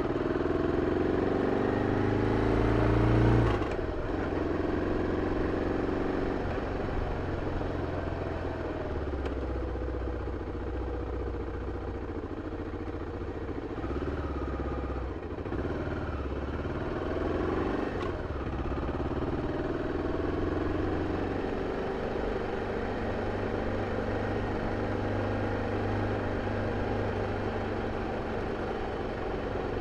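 BMW F 650 CS single-cylinder motorcycle engine running through its original exhaust under way, revs rising and falling. It is louder for the first few seconds, then eases to a steadier pull with a few short rises in revs around the middle.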